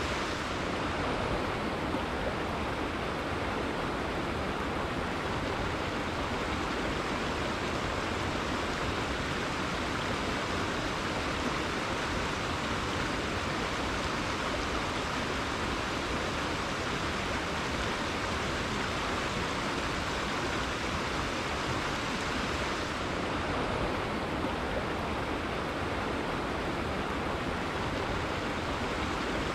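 A rainforest river flowing: a steady, even rush of water.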